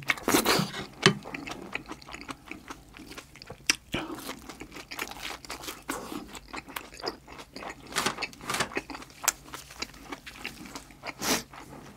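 Close-miked chewing of a mouthful of curry rice: wet mouth smacks with many short, sharp clicks and crunches.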